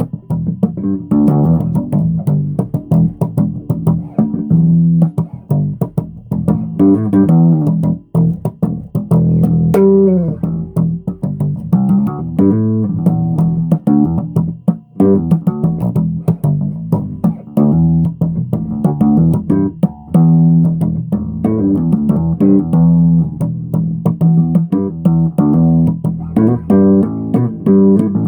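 Electric bass guitar played solo through an amplifier: a continuous run of plucked notes and riffs, with sharp attacks on each note.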